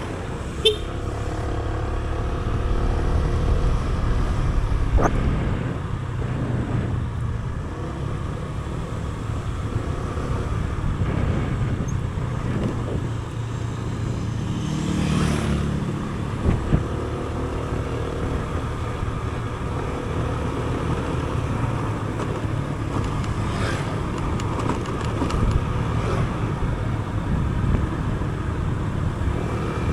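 A motor vehicle's engine running steadily, heard from on board while riding, with continuous road and wind rumble. There are a few sharp clicks, and a swell of noise about halfway through.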